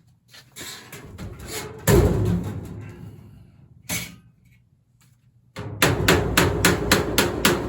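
A couple of heavy knocks, then a quick run of hammer blows, about five a second, near the end.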